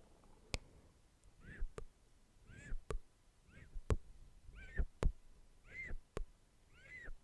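ASMR mouth sounds: sharp tongue clicks alternating with short squeaky chirps, about one of each per second in an even rhythm.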